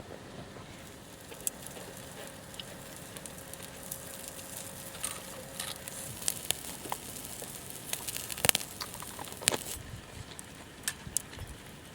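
Wood campfire crackling, with scattered sharp pops over a low steady hiss; the loudest pops come about eight and a half and nine and a half seconds in.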